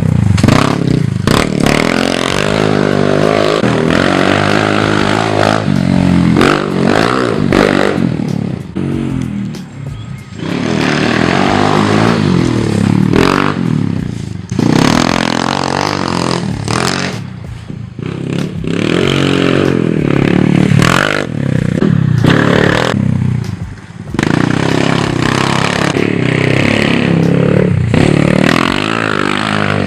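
Small pit bike engine revving hard and easing off again and again, its pitch climbing and dropping every few seconds with brief dips between runs.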